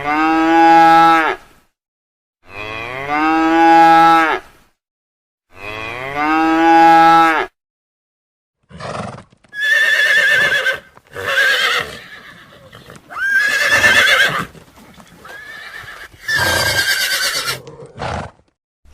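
Cattle mooing: three long, drawn-out moos a few seconds apart. About nine seconds in it switches to a string of about six shorter, high, quavering calls like horse whinnies.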